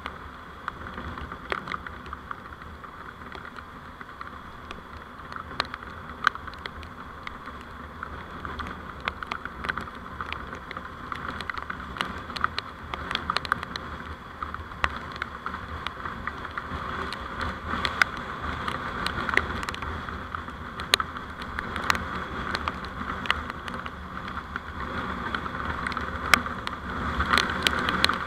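Steady road and engine noise from a vehicle on the move, picked up by a dashcam microphone, with many scattered sharp ticks. It grows somewhat louder in the last few seconds.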